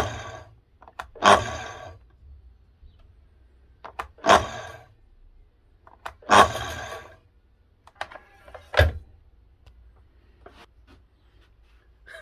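Five separate hard knocks, each with a short ringing tail, spaced one to two and a half seconds apart, four of them about equally loud and the last a sharper, shorter clack.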